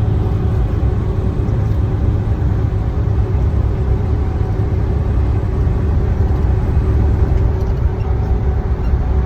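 Truck running down the road, heard from inside the cab: a steady low rumble of engine and road noise.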